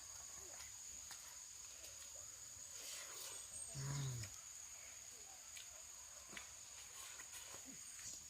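Faint, steady, high-pitched insect buzz, with a short low vocal sound about four seconds in and a few light taps.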